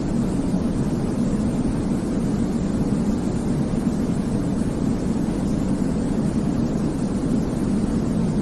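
Continuous synthetic sleep noise for babies: a steady, deep hiss weighted toward the low end, with no rhythm or changes.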